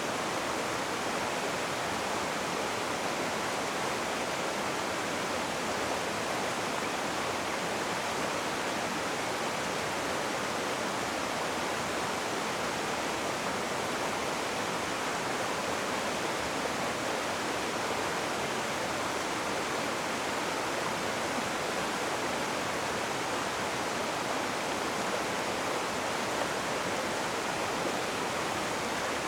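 Rushing river water: a steady, unbroken hiss of fast-flowing water with no distinct splashes or changes.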